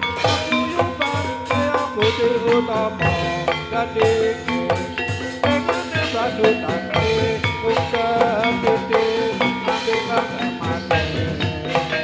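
Javanese gamelan music: struck metal keyed instruments ringing out a steady repeating melody over drums.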